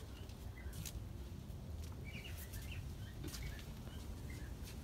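Faint birds chirping now and then over a low, steady background rumble, with a few light ticks.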